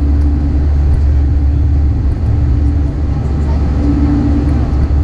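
Steady, loud low engine drone with a constant hum over it.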